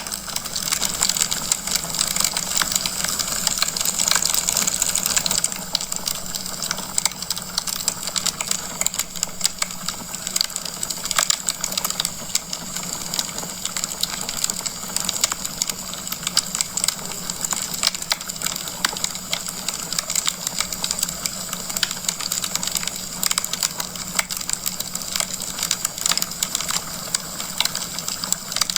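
Wood fire burning in a fireplace, crackling with many small, irregular pops over a steady hiss. The hiss is stronger for the first five seconds or so.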